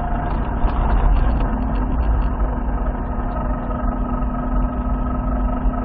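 Toyota Supra's engine running steadily under gentle throttle, a low rumble with a steady drone that holds its pitch.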